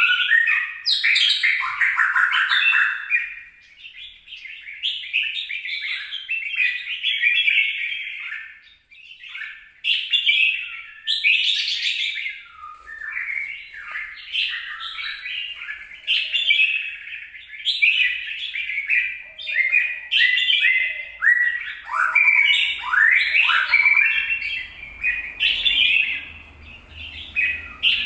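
Bulbul singing, with a long run of quick, varied chirping and warbling phrases that continues with only brief pauses.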